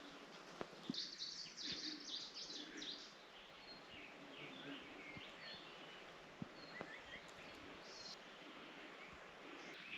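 Faint woodland birdsong: scattered high chirps and short calls over a soft background hiss, with a few brief clicks.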